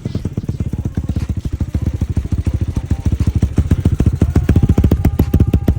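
NB300 water-cooled four-stroke dirt bike engine idling steadily with an even, quick beat of firing pulses, about a dozen a second.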